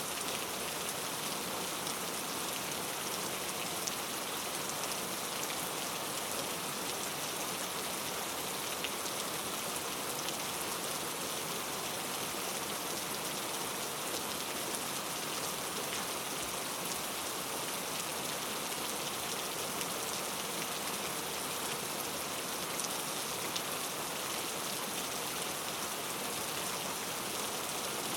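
Steady rainfall on forest foliage, an even hiss with scattered drop ticks that holds level throughout.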